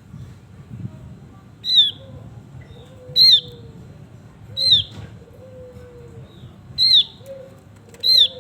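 Bird calls: five loud, short, high calls, each sliding downward, repeated about every second and a half, with a soft, low, falling whistle between them.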